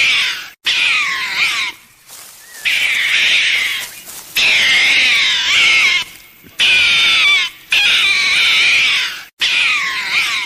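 An animal calling over and over: about six loud, high-pitched, wavering calls, each about a second long, with short pauses between them.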